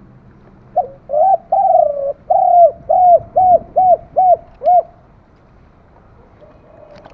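Spotted dove cooing: one phrase of about ten coos, the first few drawn out and the rest shorter, clipped notes in a quickening even run, ending about five seconds in.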